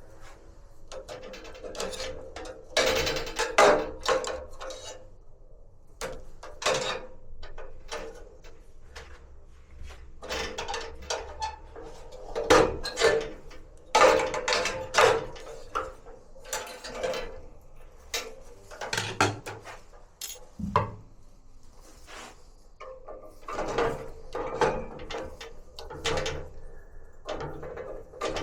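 Metal casing and parts of a Bosch gas water heater being handled and worked on during servicing: irregular clattering, scraping and clicks.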